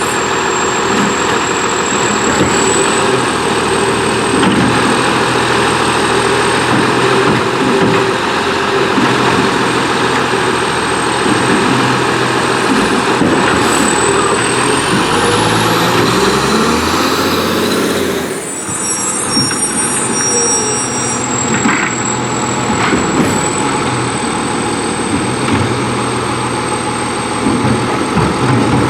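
McNeilus AFE garbage truck on a Condor chassis running, its engine steady under a thin high whine. About halfway through the whine rises in pitch, and a little later the sound shifts and drops slightly.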